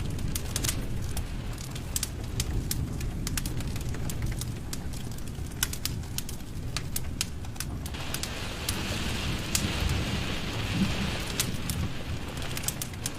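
Wood fire burning in a fireplace: a steady low rumble of flames with many sharp crackles and pops from the burning logs, and a hiss that comes in about two-thirds of the way through.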